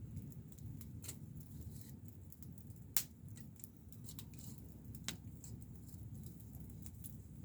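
Campfire crackling: scattered sharp snaps and clicks over a low steady rumble, with one loud snap about three seconds in and another about two seconds later.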